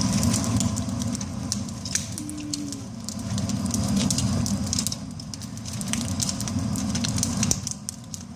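Firewood fire for grilling oysters, crackling and popping, with a steady low rumble underneath.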